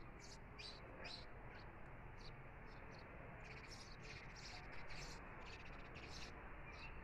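Small birds chirping, short high notes coming irregularly, several in a row at times, over a faint steady background hum.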